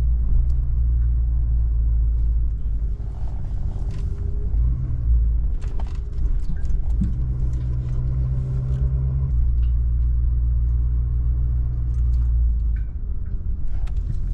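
Truck engine running steadily, with a few brief clicks and knocks over it.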